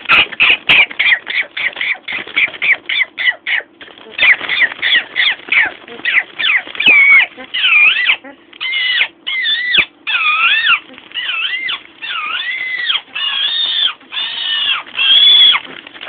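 Blue-fronted amazon parrot calling: a fast run of short, harsh squawks, about four a second, for the first few seconds, then a string of longer whistled calls that rise and fall in pitch.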